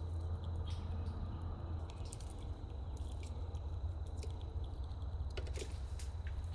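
A small animal eating close by: irregular small clicks and crunches of chewing and biting, over a steady low hum.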